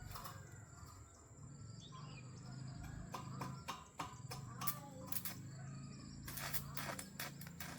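Faint farmyard ambience with scattered bird chirps over a steady high-pitched tone, and a run of light clicks and knocks in the second half.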